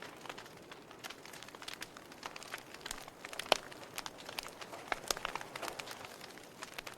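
Wood fire crackling in a fireplace: irregular snaps and pops over a soft hiss of flame, with one sharper pop about halfway through.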